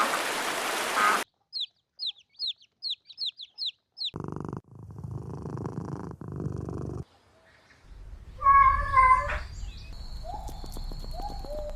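A cat meows once, a loud, drawn-out call about eight and a half seconds in, followed by shorter, fainter calls near the end. Before it comes a quick run of about eight short, high chirps, each falling in pitch.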